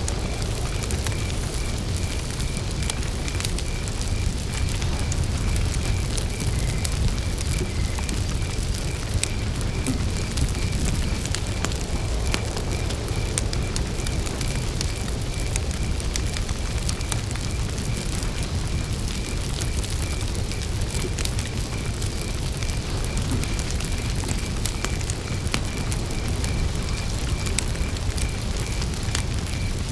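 Wood campfire burning, a steady low rumble with scattered crackles and pops. A cricket chirps in an even, repeating rhythm.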